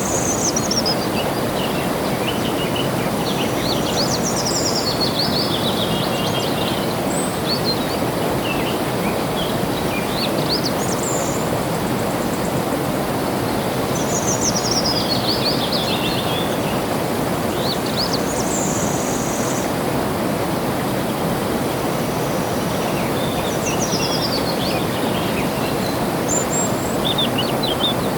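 Steady rush of flowing water, with a bird singing over it in short chirping phrases that fall in pitch and recur every few seconds.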